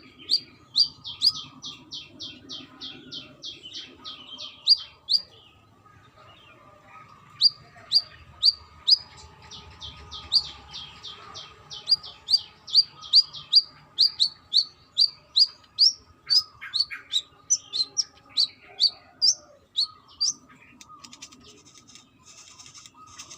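Brown-throated sunbird calling in a rapid series of sharp, high chip notes, about three a second, in two runs broken by a pause of two seconds or so about five seconds in, with a faint steady hum beneath.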